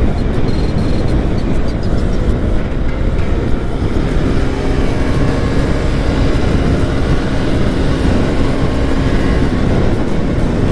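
Heavy, steady wind noise on a helmet-mounted action camera's microphone while riding a motorcycle on the road, with a faint steady engine hum underneath.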